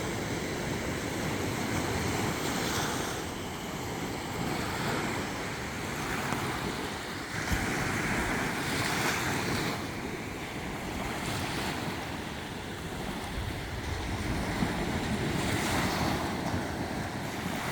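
Sea waves washing in and breaking on the shore, swelling and ebbing every few seconds, with wind buffeting the microphone.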